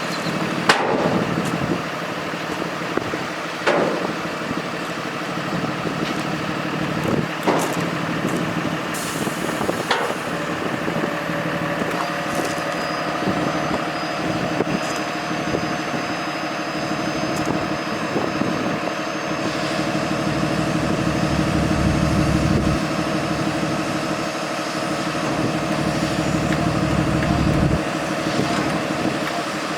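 Diesel engine of a Freightliner M2 dump truck (Cummins 6.7L ISB) running, with a few short sharp sounds in the first ten seconds. A steady whine joins about twelve seconds in, and the low rumble grows louder between about twenty and twenty-eight seconds.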